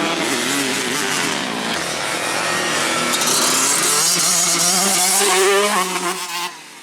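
Two-stroke motocross bike engines revving hard, pitch climbing and dropping with throttle and gear changes, then falling away sharply near the end.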